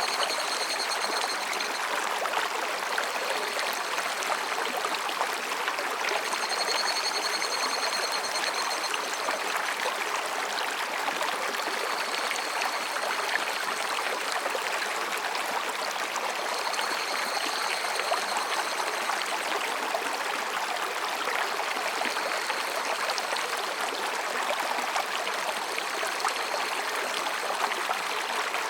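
Mountain stream babbling and splashing over rocks, a steady rush of water. Higurashi cicadas call in short high, pulsing bouts of a few seconds each, coming back every few seconds.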